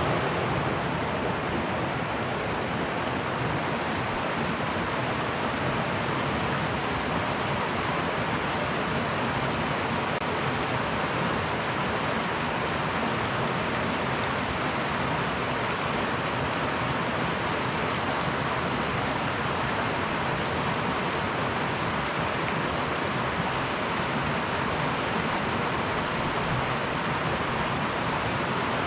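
Canyon river flowing: a steady, even rush of water with no breaks.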